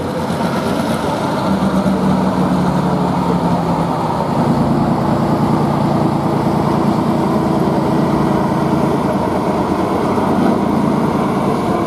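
Truck engine running steadily, its pitch shifting slightly upward about a second and a half in and again around four seconds.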